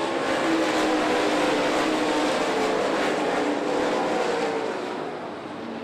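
Dirt late model race cars' V8 engines running at racing speed around the dirt oval, several engines at once. The sound is loudest early on and eases off after about four and a half seconds as the cars move away.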